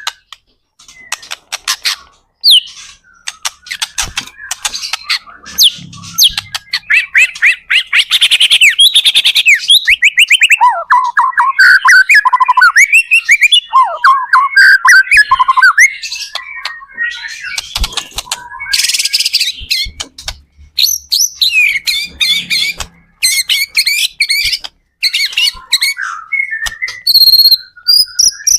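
White-rumped shama (murai batu) singing in full song: a fast, varied stream of loud whistles, rapid trills and sharp clicking notes with brief pauses.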